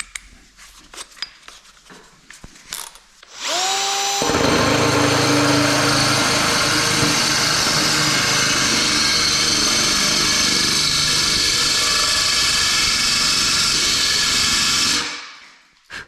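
Small clicks of a new diamond bit being fitted to a power tool, then the tool starts with a rising whine about three seconds in, runs steadily for about eleven seconds, and winds down near the end.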